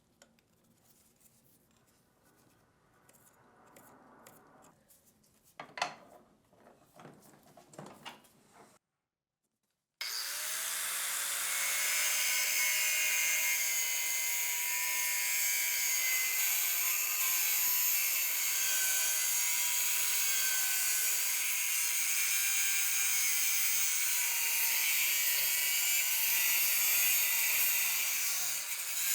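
A few faint clicks and scrapes of parts being handled. After a brief cut, a power tool starts and runs steadily under load, its pitch wavering.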